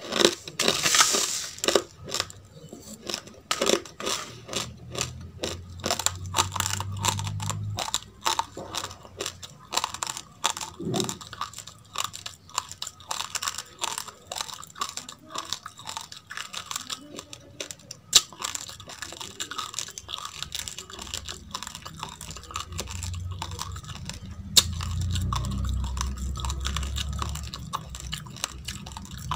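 Close-miked chewing of a mouthful of raw, uncooked basmati rice: a rapid, irregular run of small dry crunches as the hard grains break between the teeth.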